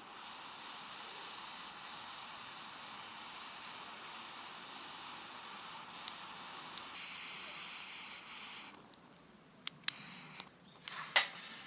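Wood fire burning with a steady hiss, then several sharp crackles and pops of wood near the end.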